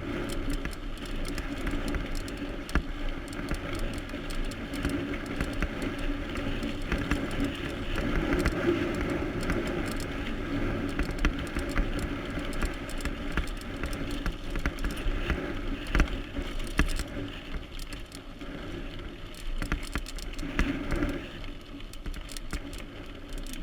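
Mountain bike ridden over a rough trail: a steady rolling noise with frequent rattles and clicks from the bike, and one sharper knock about two-thirds of the way through.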